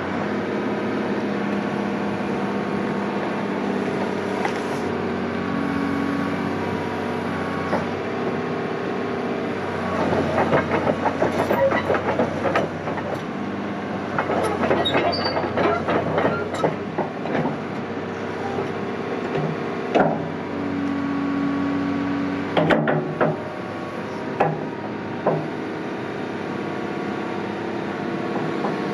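Diesel engine of a Komatsu PC200EL-6K tracked excavator running steadily, with a dense metallic clatter about a third of the way in and several sharp knocks near the end.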